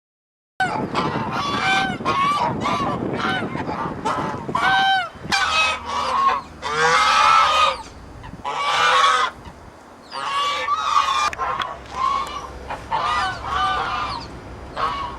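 A crowd of waterfowl, geese and ducks, calling all at once, one short pitched call overlapping the next, starting about half a second in.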